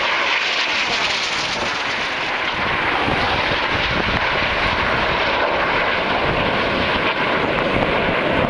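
Airplane engine noise from an aircraft flying past, a loud, steady rushing sound with no clear pitch changes.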